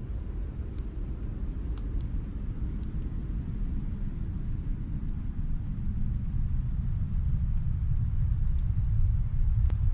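Wood fire crackling, with scattered sharp pops and one stronger pop near the end, over a low steady rumble that swells slightly.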